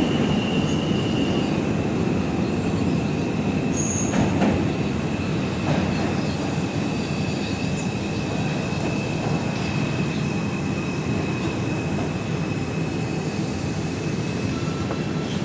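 R142 subway car heard from inside its cabin, rolling on the rails with a steady rumble and a continuous high-pitched wheel squeal.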